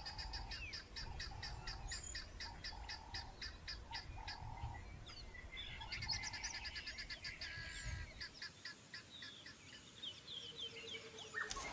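Wild birds calling. A fast, even series of high chirps at about five a second runs through the first half, over a lower call repeating about once a second, then gives way to scattered chirps and short whistles.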